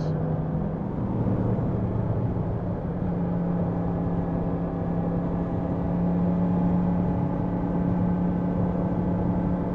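Yamaha MT-10 SP's crossplane inline-four engine running under way on the road. Its note shifts in the first few seconds, then holds a steady pitch.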